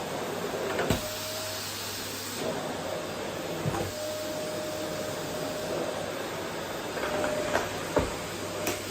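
Vacuum cleaner running steadily as it is pushed over a wooden floor, with a faint hum that comes and goes. Several short knocks come through it: one about a second in and a few close together near the end.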